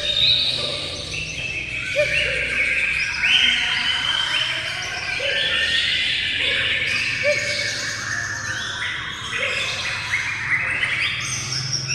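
Several songbirds singing at once: a dense, overlapping chorus of high chirps and trills, with a short lower note repeating about once a second underneath.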